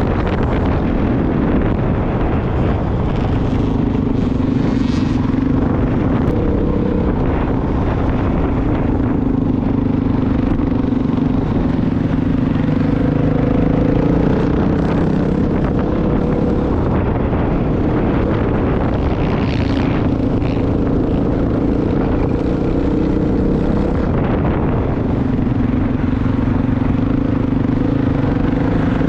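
Motorcycle engine running under way, its note rising and easing several times as the throttle is opened and closed, over a rough rush of wind and road noise.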